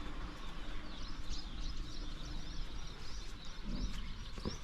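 Small birds chirping rapidly and repeatedly over a steady low rumble, with a soft thump near the end.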